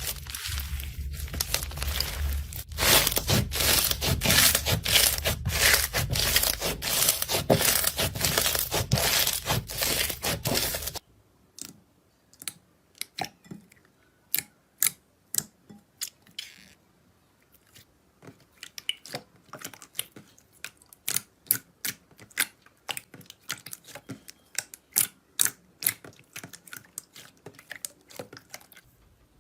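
Close-up crunching and crackling of a crunchy material being pressed and crushed by hand: dense, continuous crackling for about the first eleven seconds, then a sudden change to sparser, separate crunches and clicks.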